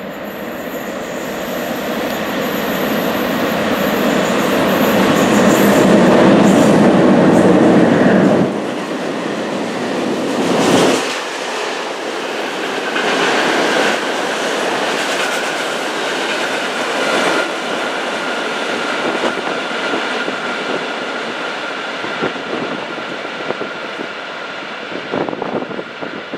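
Freight train of a CP class 5600 electric locomotive and cement tanker wagons passing at speed. It is loudest as it builds over the first eight seconds or so, then drops sharply to a steady run of wagons rolling past with wheel clatter and a thin steady whine.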